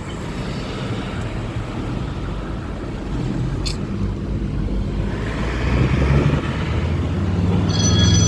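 City road traffic: car engines running and vehicles passing, swelling louder about two-thirds of the way in, with a sharp click near the middle. Near the end a high, steady ringing tone starts.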